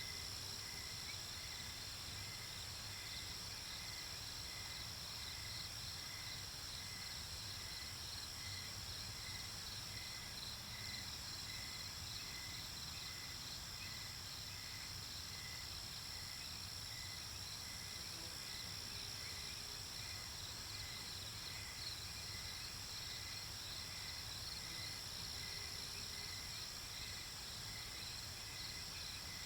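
Night-time nature ambience of crickets and other insects chirping steadily: a continuous high trill with a slower, even chirp repeating about once a second.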